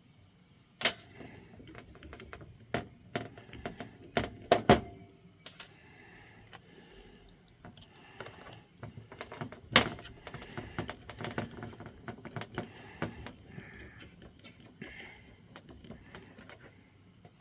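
Small hard parts clicking and tapping as they are handled and fitted on a workbench, irregular throughout, with a few louder knocks. These are the engine mount pieces for an RC truck.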